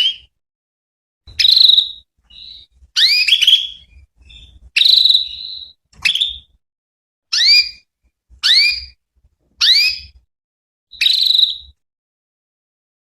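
Female domestic canary calling: a series of short, sharp upward-sweeping chirps, about one every second or so, roughly nine in all, stopping near the end.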